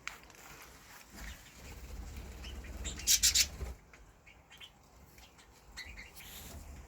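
Bird wings flapping in a short flurry of a few quick beats about three seconds in, with a few faint chirps afterwards.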